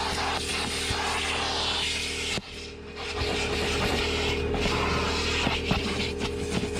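Vacuum cleaner running with a steady motor hum, its nozzle scraping and rubbing over the car's carpet and upholstery with small crackles of debris. The sound dips briefly about two and a half seconds in, then comes back.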